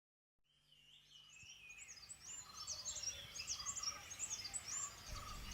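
A chorus of small birds chirping, many short high notes repeating quickly and overlapping. It fades in from silence over the first second or two.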